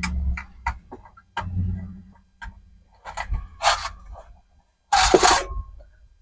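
Scattered clicks and knocks, a few dull thuds and two short scraping sounds, about three and a half and five seconds in, from handling a car stereo and its metal mounting tabs in the dash opening.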